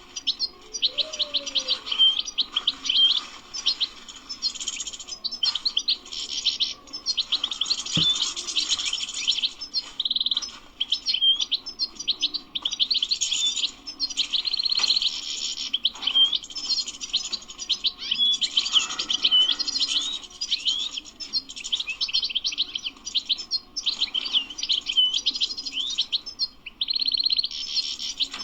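European goldfinch singing a long, fast twittering song of rapid chirps and trills, with a few short pauses and brief buzzy notes mixed in.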